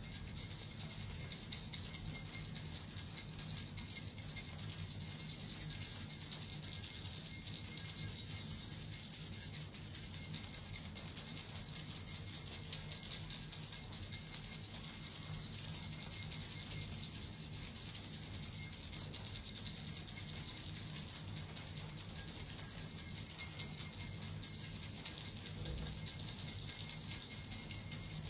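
Small jingle bells (suzu) shaken continuously in a steady, unbroken shimmering jingle.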